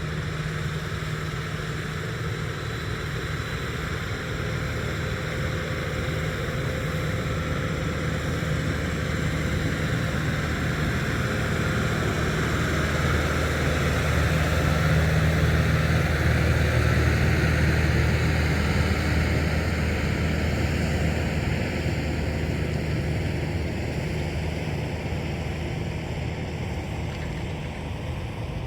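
Farm tractor running with its rotary tiller working: a steady engine drone that grows louder toward the middle and eases off near the end.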